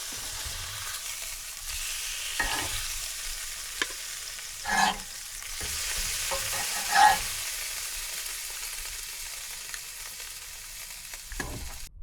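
Food sizzling steadily on a cast iron griddle, with a utensil scraping and stirring a few times, loudest about five and seven seconds in. The sizzle cuts off suddenly near the end.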